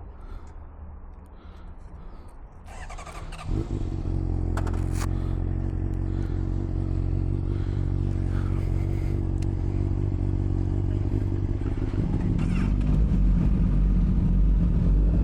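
Motorcycle engine cranked by the starter and catching about three and a half seconds in, then idling steadily; about twelve seconds in it gets louder and deeper.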